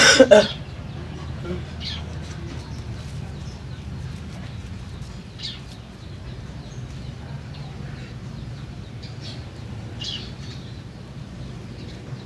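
Birds chirping in the background: a few short, scattered chirps some seconds apart, over a steady low hum. A brief loud handling noise comes right at the start.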